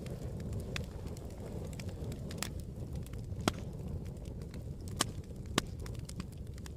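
Campfire crackling: irregular sharp pops and snaps over a low steady rumble of burning wood, with a few louder pops scattered through.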